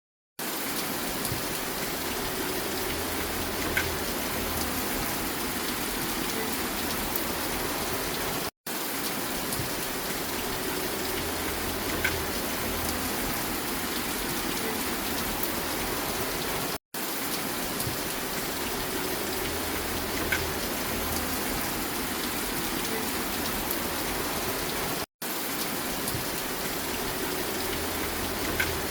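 Steady rain falling, a short recording looped about every eight seconds. Each repeat is split by a momentary dropout to silence, and the same single drip tick recurs in each loop.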